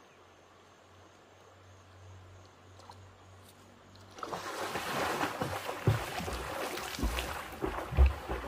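Water splashing and sloshing as someone wades or swims through floodwater, starting suddenly about four seconds in, with a few heavier splashes near the end.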